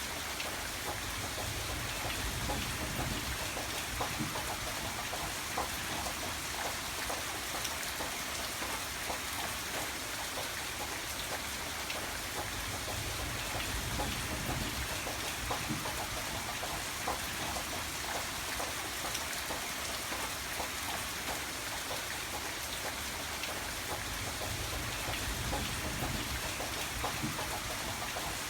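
Steady rain falling on a surface, a dense even hiss with many small drop taps. A low rumble rises and fades a few times underneath.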